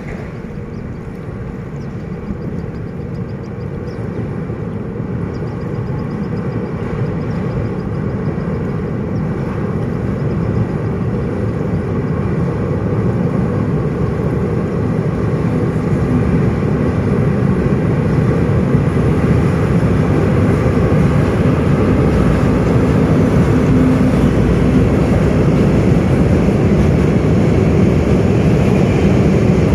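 Freight train hauled by a D20E diesel-electric locomotive rumbling across a steel arch bridge, a low steady rumble that grows louder throughout as the train comes nearer.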